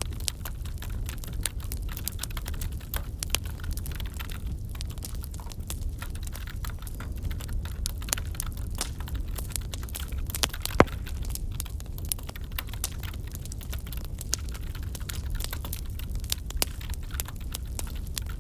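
Crackling wood fire in a fireplace: a dense scatter of small irregular pops with a sharper crack about eleven seconds in, over a steady low rumble.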